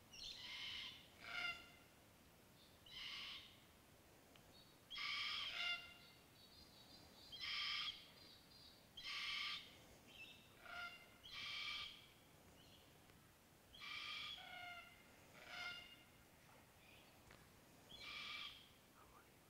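A bird calling over and over in short, clear calls, about a dozen of them, one every second or two, over faint background noise.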